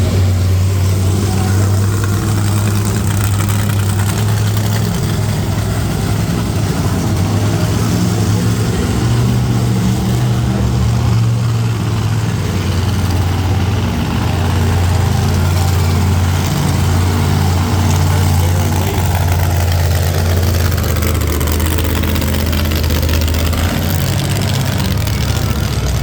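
Monster truck engine idling with a steady, deep rumble.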